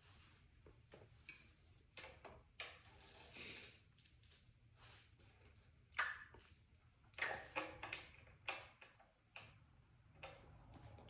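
Faint, irregular clicks and light taps of hand work with small metal parts and tools, a few a little louder about six and seven seconds in.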